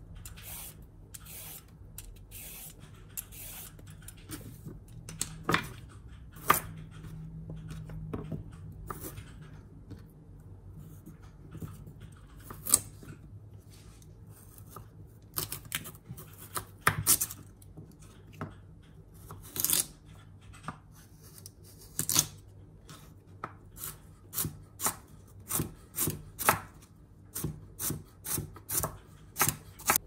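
A carrot being peeled with a Y-peeler, quick scraping strokes. Then a kitchen knife chops the carrot on a wooden cutting board: single knocks at first, then a steady run of about two chops a second near the end.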